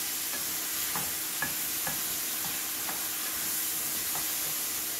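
Chicken and vegetables sizzling steadily in olive oil and garlic butter in a frying pan, with a few light taps.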